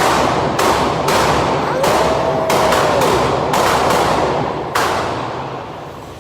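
Gunshots at a shooting range, about seven sharp reports spaced irregularly, each followed by a long echoing decay.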